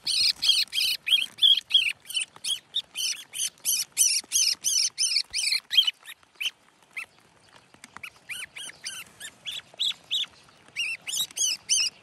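Fledgling songbird begging for food while being hand-fed: rapid high chirping calls, about three a second, that thin out about six seconds in and pick up again near the end.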